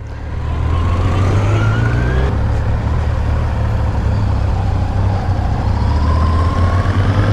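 Kawasaki Z900's inline-four engine pulling under way, its pitch rising, dropping back about two seconds in as it shifts up, then climbing again.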